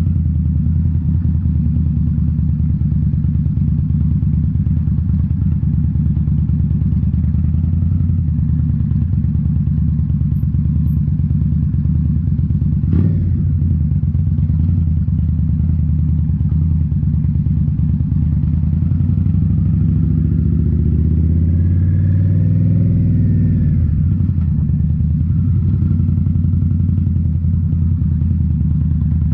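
Indian Scout Bobber's liquid-cooled V-twin running through Rinehart slip-on mufflers at riding speed, with a steady exhaust note. A single sharp knock comes about halfway through. A little later the engine note rises and then falls back.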